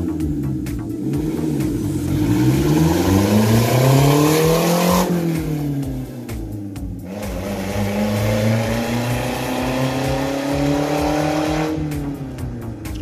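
Toyota 3SZ 1.5 litre DOHC four-cylinder engine in a VW bus revving. Its pitch climbs, then falls off sharply about five seconds in, and climbs again more slowly before a second sharp drop near the end.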